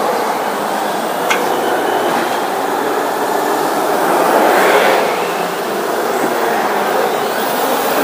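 Several battery-electric RC monster trucks racing on a hard court, their motors and drivetrains whining and their tyres scrubbing in a steady, dense noise. It swells as trucks pass close about four to five seconds in, with a sharp click a little after the first second.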